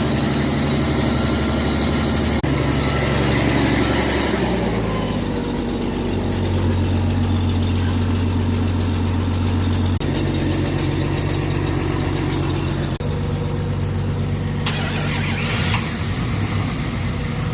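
Truck engine running just after a hard start: revved in the first few seconds, then dropping back to a steady idle, its speed shifting a couple of times.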